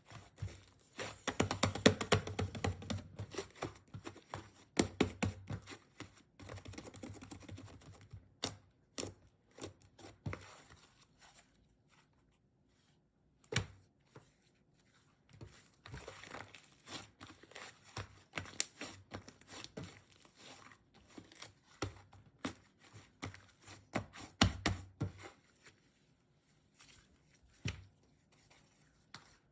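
Slime squished and pressed by hand, making irregular sharp clicks, pops and crackles. The clicks are densest in the first few seconds, and there is a brief pause near the middle.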